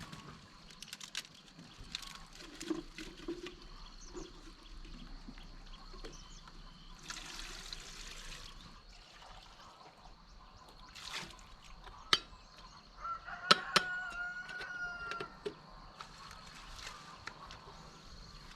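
Scattered small knocks and clicks, a brief rush of water about seven seconds in, and one drawn-out call of a bird, likely a chicken, about thirteen seconds in, over a faint steady high whine.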